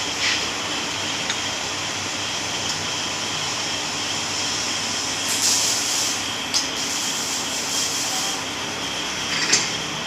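A pipe and plate rolling machine running steadily as it rolls a flat steel plate, with a few sharp metal clicks and a brief hissing scrape about halfway through.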